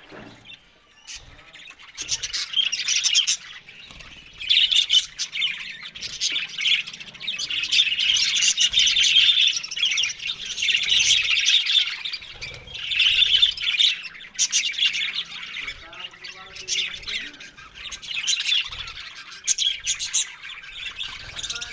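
A flock of budgerigars chattering and chirping together, the busy warbling rising and falling in bouts a second or two long with short lulls.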